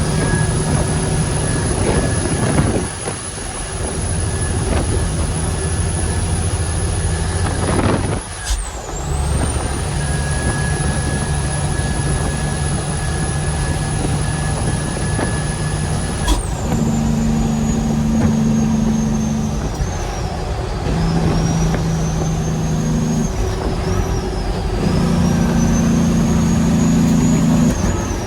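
Heavy diesel truck driving, its engine running under load with a high whine that climbs and holds, then drops away sharply at gear changes about eight and sixteen seconds in. A short hiss of air comes near the first change.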